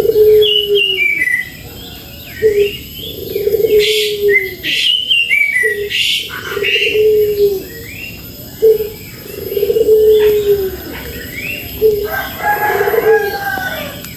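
Birds calling. A low two-part call, a short note then a longer slightly falling one, repeats about every three seconds, with higher chirps and whistled notes over it.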